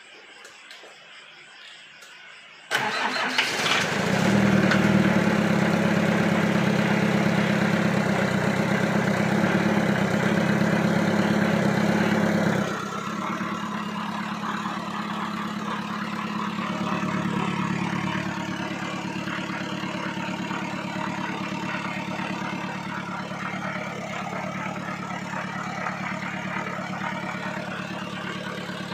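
Restored 1980 Mitsubishi FE100 engine starting suddenly about three seconds in and running steadily; about thirteen seconds in it drops to a slightly quieter, even run.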